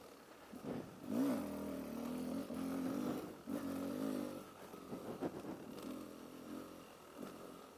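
Motorcycle engine on a trail ride, the throttle opened and closed: a quick rise and fall in revs about a second in, then steady running with brief let-offs, quieter in the second half.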